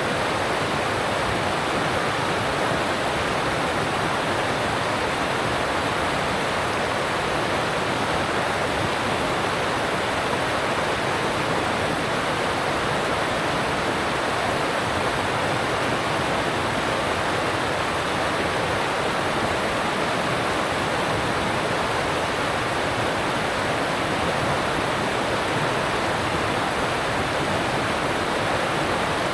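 Alpine stream rushing steadily over rocks, a constant, even rush of water with no breaks.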